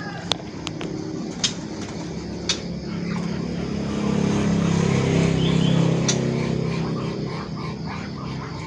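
A motor vehicle's engine hum swells and fades as it passes by, with a few sharp clicks over it.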